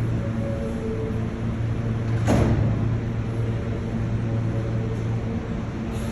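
New York City subway E train standing at the station, its cars giving a steady low hum. About two seconds in, one sharp sound slides quickly down in pitch.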